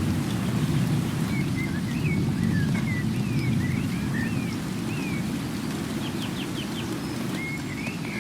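Small birds chirping in short rising and falling notes, with a quick run of sharp notes about six seconds in, over a steady low rushing noise of rain or running water.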